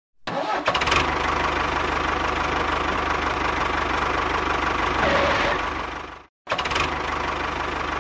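A tractor engine starting up and running steadily with a fast, even low beat. It fades and cuts out just after six seconds, then starts again straight away.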